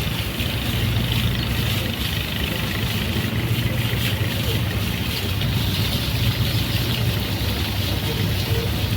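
A boat's engine running steadily: a constant low hum with an even hiss over it.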